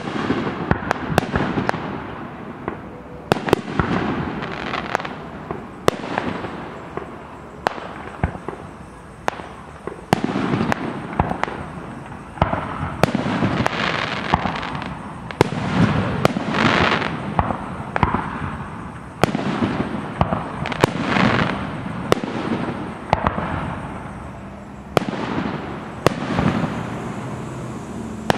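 Aerial fireworks display: shells bursting with sharp bangs at irregular intervals, sometimes several within a second, each followed by a long echo that fills the gaps between them.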